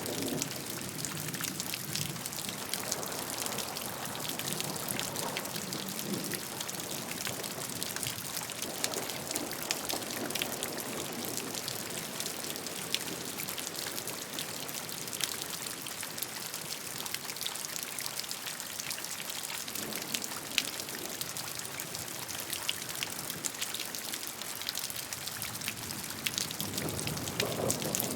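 Steady rainfall: an even hiss of rain with many sharp individual drop ticks, over a lower rush of running water that swells now and then, most strongly near the end.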